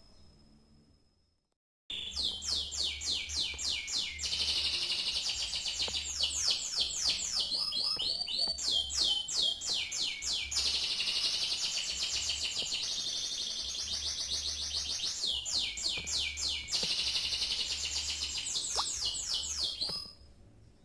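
Domestic canary singing a long, continuous song of fast trills and repeated downward-sweeping notes, starting abruptly about two seconds in and stopping near the end.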